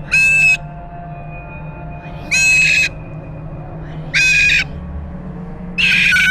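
Cockatoo screaming: four loud, harsh calls, each about half a second long, about two seconds apart.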